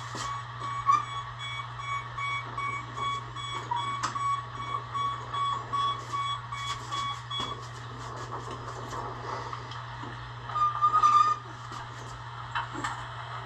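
Electronic warning beeper sounding a quick string of repeated beeps for about seven seconds, with scattered knocks. A louder, brief tone burst comes near the end.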